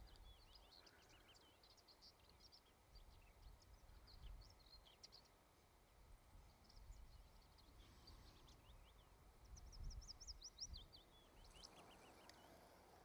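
Faint birdsong: quick high chirps and trills in several bursts, over a faint, uneven low rumble.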